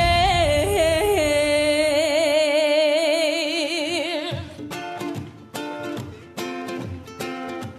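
A woman sings one long held note with vibrato, ending about four seconds in, followed by a run of plucked-string notes picking out the accompaniment.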